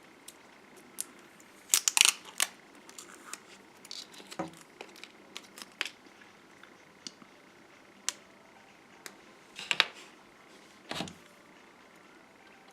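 Scattered sharp clicks, taps and short rustles of small plastic shipping containers and packaging being handled and opened, with the loudest cluster about two seconds in and more near the end.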